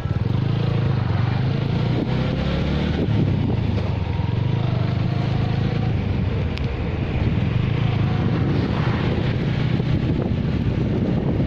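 An engine running steadily, with a steady rushing noise over it.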